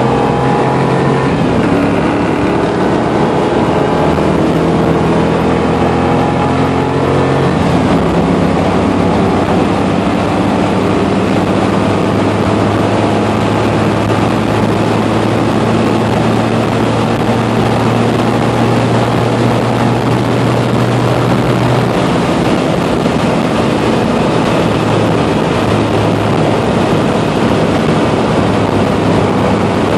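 1989 Pontiac Firebird Trans Am engine heard from inside the cabin under hard acceleration, its pitch rising for the first seven seconds or so. About eight seconds in it changes and then holds a steady high pitch, easing slightly lower about twenty-two seconds in, over road and wind noise.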